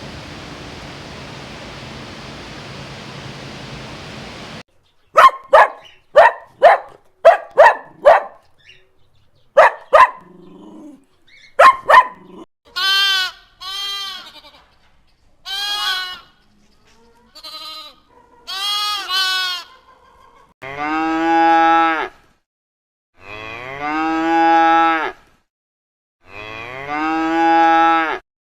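Sheep bleating: a series of wavering baas, the last three long and low. Before them come a steady hiss and a quick run of short, sharp animal calls.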